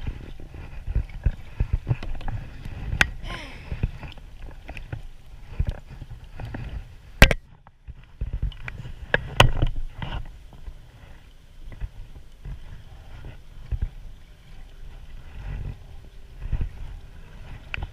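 Irregular knocks and clunks on a kayak as gear and paddle are handled, over a low rumble, with one sharp loud click about seven seconds in.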